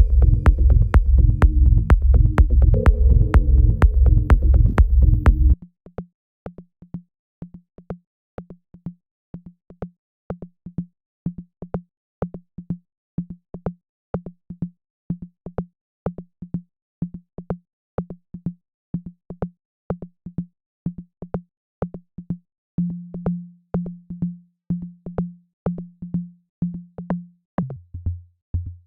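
Electronic music playing back from a production session: a full, bass-heavy loop for the first few seconds, which then cuts to a single short low synth note repeating in a rhythm, about two a second. The note gets louder later on and drops to a lower pitch near the end, as one part is played on its own and adjusted.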